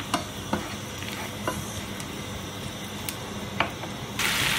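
Ginger and garlic sizzling steadily in butter in a nonstick frying pan, with a wooden spatula knocking against the pan a few times as it stirs. Near the end the sizzle suddenly becomes much louder.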